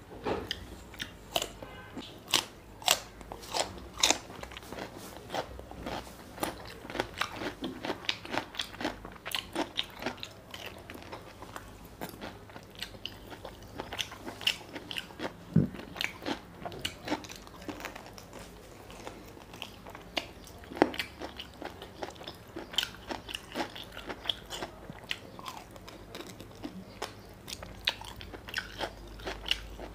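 Close-miked chewing and biting as mutton curry and rice are eaten by hand: a quick, irregular run of wet mouth clicks, smacks and crunches.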